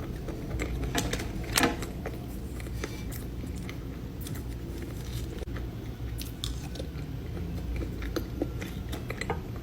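Close-up chewing and biting of a dessert, with a few sharp crunches scattered through it.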